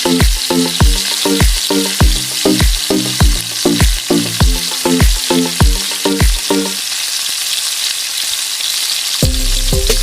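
Food frying in hot oil, a loud, steady sizzle. Background music with a regular beat plays over it, drops out about two-thirds of the way through, and a different track starts near the end.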